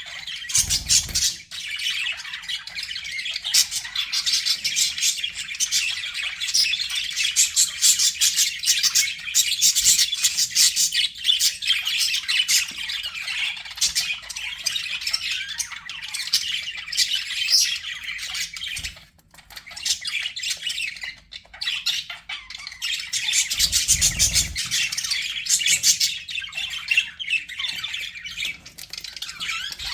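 Budgerigars chattering and warbling: a dense, continuous stream of rapid chirps and squawks, with a brief lull just past the middle.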